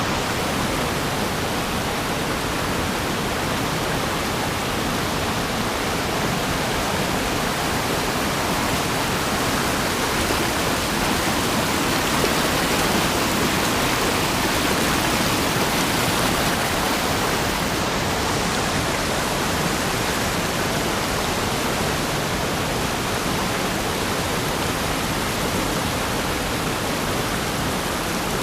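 Steady rush of flowing river water, heard through a GoPro's waterproof case that muffles it.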